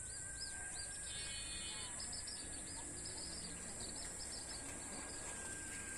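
Birds chirping, many short repeated calls with a brief rapid trill about a second in, over a steady high-pitched insect drone.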